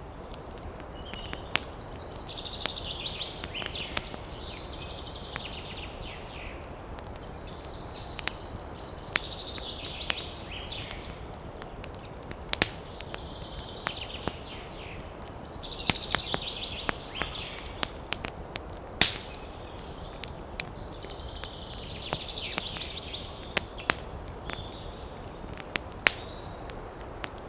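Campfire crackling with frequent sharp pops of burning wood, over a steady background hiss. A high chattering animal call comes back about every six seconds.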